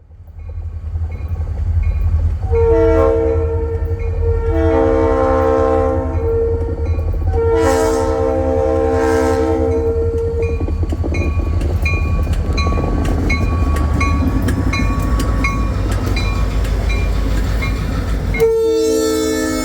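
O gauge MTH model steam locomotive's onboard sound system blowing its chime whistle in several long blasts, over a steady rumble from the running train and a bell ringing at about two strokes a second.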